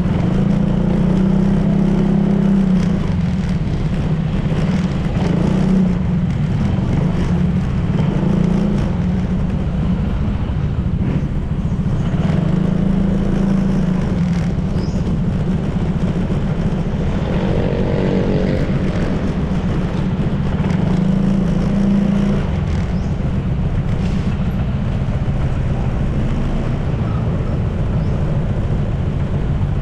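Honda PCX 160 scooter's single-cylinder engine running steadily at riding speed, with road noise. The engine note drops to a lower pitch about three-quarters of the way through, as the scooter eases off.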